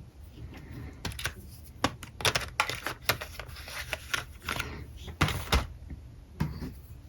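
Alcohol markers being handled on a desk: an irregular run of sharp plastic clicks and taps, with short rubbing sounds between them, starting about a second in and thinning out near the end.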